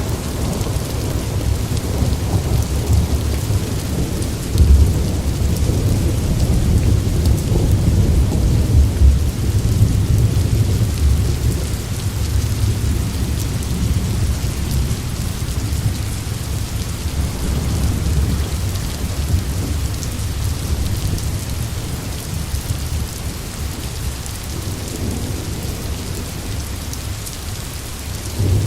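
Steady rain with long, rolling rumbles of thunder. The low rumble is heaviest through roughly the first half and slowly dies away, and another rumble swells up near the end.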